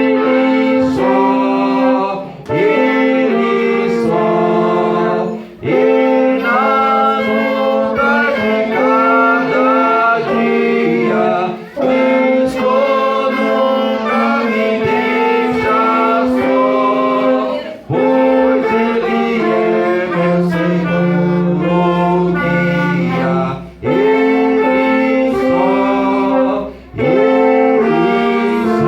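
Live gospel band playing a hymn: singing over wind instruments and backing, in phrases broken by short gaps.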